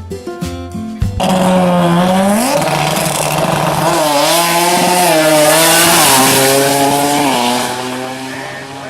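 A tuned car engine revving hard at high rpm, its pitch climbing, dipping and dropping in steps. Guitar music plays for the first second, then cuts off abruptly as the engine comes in.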